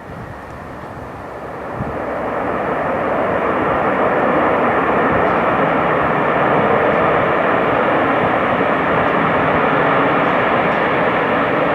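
Boeing 737-800 jet engines passing close on the landing approach: a broad rushing jet noise that builds over the first few seconds and then holds steady and loud.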